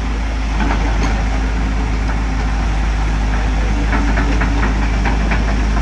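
Hydraulic excavator's diesel engine running steadily with a deep drone. About four seconds in, a run of short clicks and rattles sounds over it.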